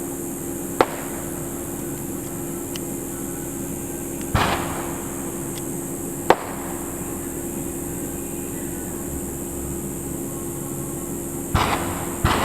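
Fireworks shells bursting overhead, sparse at first: a sharp bang about a second in, a bang with a crackling, fading tail at about four seconds, another sharp crack around six seconds, then a quick cluster of bursts near the end, with a steady low hum underneath.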